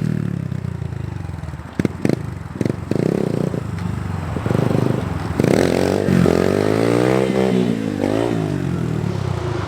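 Small dirt bike engine revving up and dropping back several times while being ridden, with a few sharp clacks about two seconds in.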